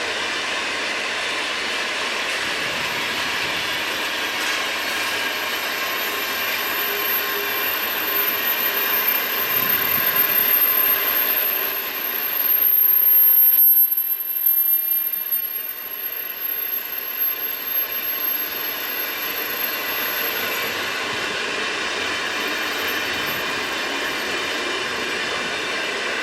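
Freight train cars rolling past on the rails, a steady rattle and rumble of wheels on track, with a thin high-pitched squeal over it that dies away about three-quarters of the way through. The noise swells briefly about halfway through.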